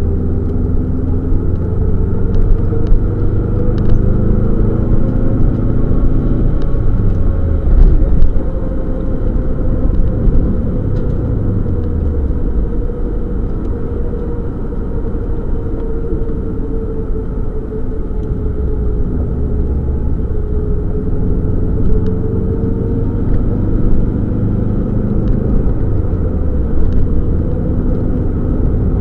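Subaru Legacy rally car's engine heard from inside the cabin under hard driving, its pitch rising and falling as it revs, with a few steep drops in pitch, over road and tyre noise.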